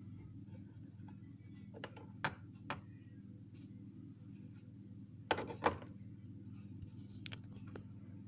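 A steady low hum with scattered light clicks and knocks, the loudest a pair of knocks about five and a half seconds in.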